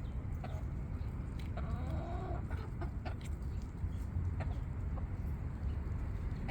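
Chickens clucking, with a short run of wavering calls about two seconds in and a few short clicks, over a steady low rumble.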